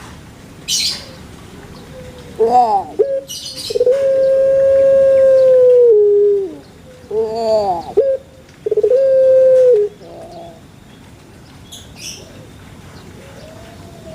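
A bird singing: a couple of short bending calls, then a long held note of about two seconds that steps down in pitch at its end, more short calls and a second held note of about a second. Faint high chirps sound in between.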